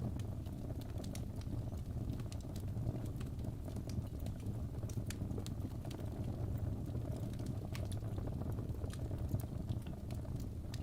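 Fire burning in a fireplace: a steady low rush of flames with scattered sharp crackles and pops.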